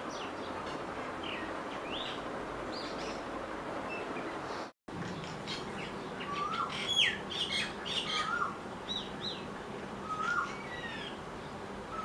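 Birds chirping and calling over a steady background hiss, with short whistled notes and a short up-and-down note repeated about once a second in the second half. The sound cuts out completely for a moment just under five seconds in.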